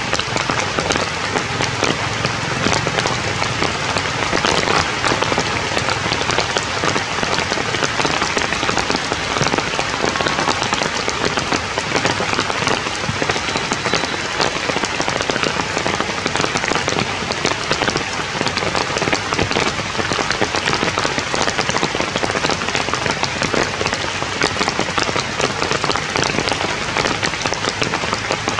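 Rain falling on forest leaves: a steady dense hiss of many small drops, unchanging throughout.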